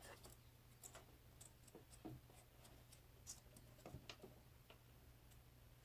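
Near silence: a few faint, scattered light clicks and taps from handling small wooden dollhouse trim pieces, over a faint steady low hum.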